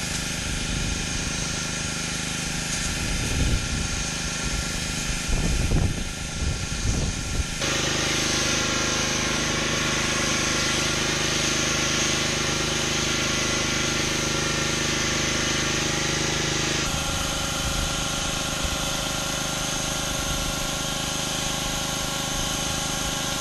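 Gas-engine pressure washer running steadily under the hiss of high-pressure water spray on concrete. About a third of the way in, the spray grows louder and harsher for about nine seconds, then eases back.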